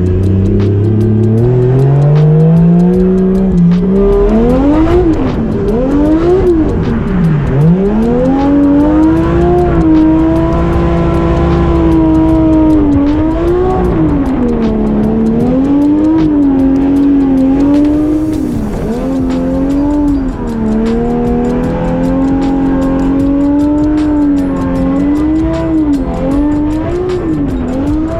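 Toyota Chaser JZX100 drift car's 450 hp single-turbo engine being revved hard through a skid-pad drift. It climbs steadily in pitch for the first few seconds, then keeps rising and falling about every second or two at high revs as the throttle is worked.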